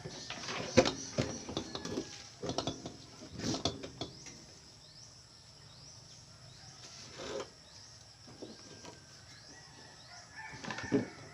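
Irregular knocks and clatter, several in the first few seconds and more near the end, with faint short bird chirps in the quieter stretch between.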